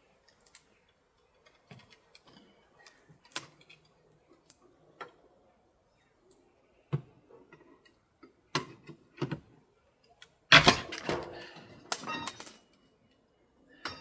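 Broken window glass and tools clinking and clattering: scattered light clicks and taps, then a loud clatter about ten and a half seconds in, with short ringing clinks around twelve seconds.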